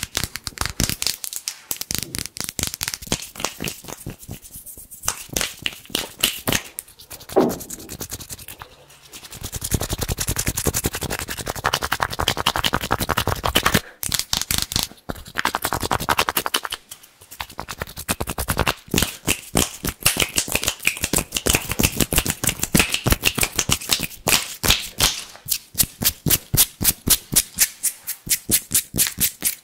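Fast, crisp hand sounds close to the microphone: palms and fingers rubbed and tapped in quick runs of sharp strokes, with a stretch of steadier rubbing about ten seconds in.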